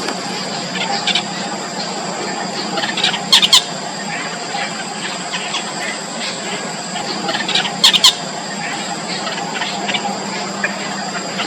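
Yellow bittern nestlings squealing in the nest, a constant run of short high calls, with two louder, sharper calls about three and a half seconds and eight seconds in. A steady high whine runs underneath.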